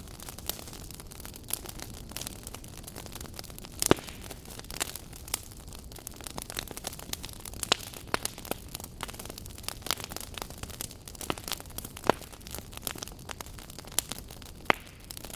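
Wood fire burning in a fireplace, a steady low rumble with irregular sharp crackles and pops, the loudest pop about four seconds in.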